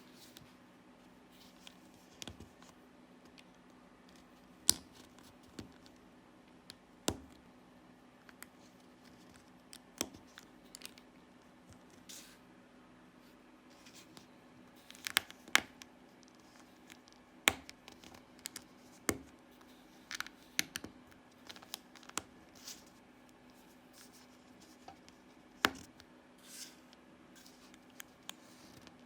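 Small plastic LEGO bricks being handled and pressed together: irregular sharp clicks, a few seconds apart and sometimes in quick little clusters, over a faint steady hum.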